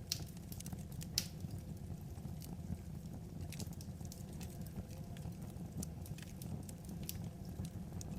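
Wood fire crackling: scattered sharp pops and ticks over a low, steady rumble of burning logs, with one louder pop about a second in.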